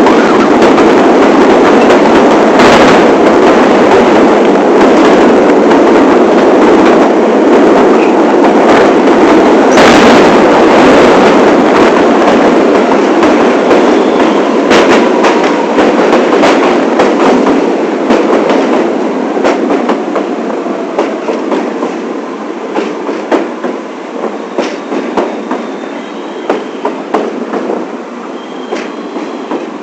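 New York City subway train on the 1 line, heard from on board in the front car: a steady rumble of wheels on rail with clicks at rail joints. After about two thirds of the way through, the rumble grows quieter and separate clacks stand out.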